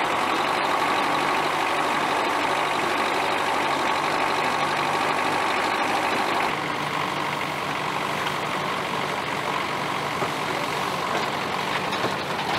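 Vintage tractor engine idling steadily, dropping a little in level about six and a half seconds in.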